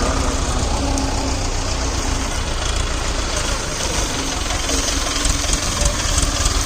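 Tractor diesel engine running steadily, a low, rapidly pulsing rumble.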